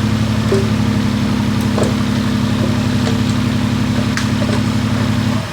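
Diesel engine of heavy machinery running steadily at an even speed, with a regular low pulsing. Its sound drops off abruptly at the very end.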